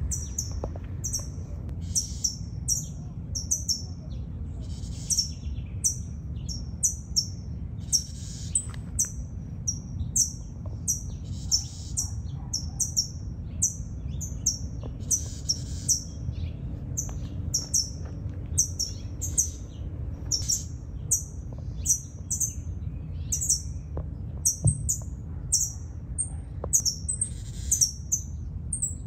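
A small bird chirping over and over: short, high, falling chirps, two or three a second, over a steady low rumble.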